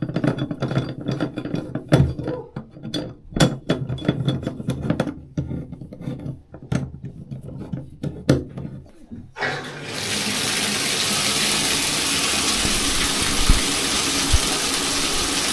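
A run of irregular clicks and knocks, then about ten seconds in a bathtub faucet is turned on and water gushes steadily into the tub to test the freshly cleared drain.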